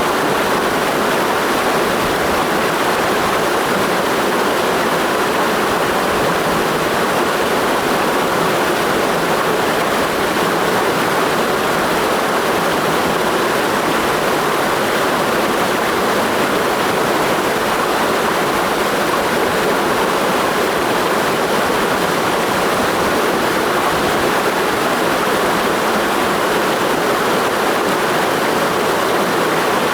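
Mountain stream rushing over rocks in a steady, unbroken torrent of water noise.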